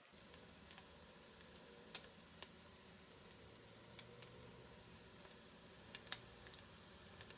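Scattered light clicks and taps at irregular intervals, two of them clearly louder (about two seconds in and about six seconds in), over a faint steady background hum.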